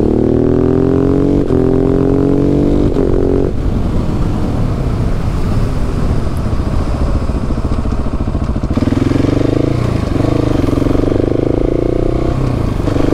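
KTM 690 SMC-R supermoto's single-cylinder engine under way. Its pitch climbs under acceleration in the first few seconds, then it backs off and later holds a steadier pitch, with a brief dip near the end.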